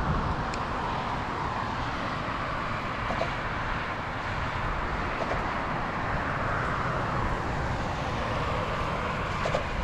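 Car on the move: a steady rush of tyre and road noise over a low engine and drivetrain rumble, heard from inside the vehicle.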